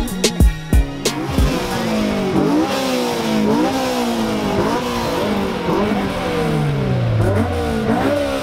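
Honda S2000's four-cylinder engine revved hard in repeated quick blips, the pitch climbing and dropping back each time, then falling back toward idle near the end. Backing music cuts out within the first second.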